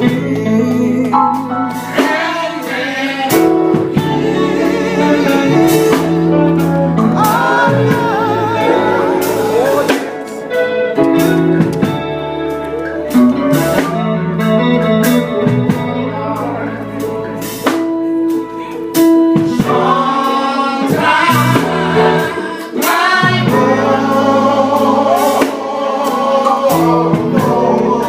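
Gospel group singing with guitar accompaniment and a steady beat.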